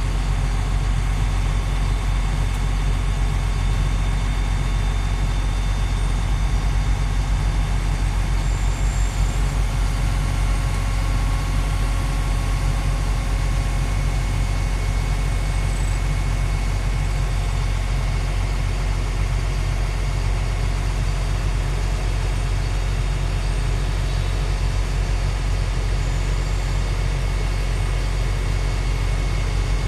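Cummins diesel engine of a Liugong CLG922E crawler excavator running steadily at an even speed, a low, unchanging drone with no revving.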